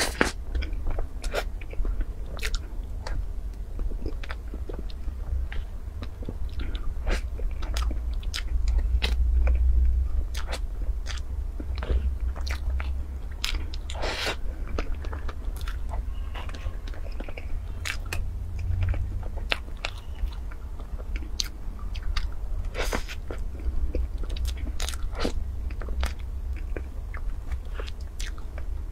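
Close-miked eating of soft cream-frosted layer cake: wet chewing and mouth sounds with many short, sharp clicks and smacks. A steady low hum runs underneath.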